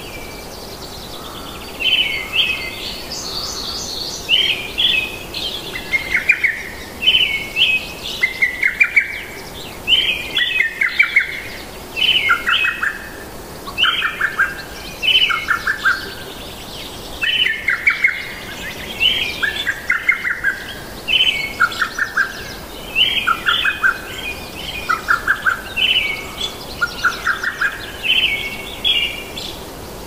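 Songbirds chirping and trilling: short phrases of high chirps alternate with lower rapid trills, about one phrase a second, over a steady background hiss.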